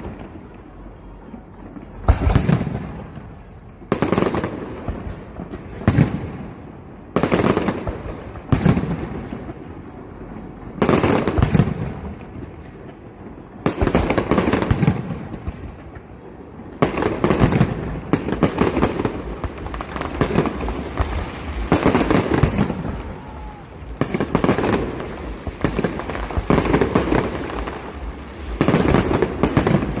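Aerial fireworks shells bursting in a steady series, a loud bang every one to two seconds, each dying away over about a second before the next.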